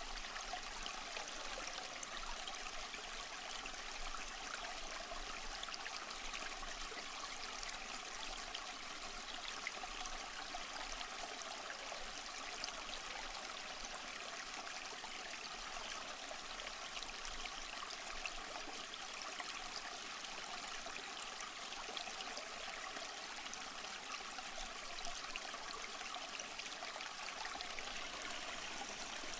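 Small stream flowing over rocks: a steady, even rush of water with fine trickling and splashing.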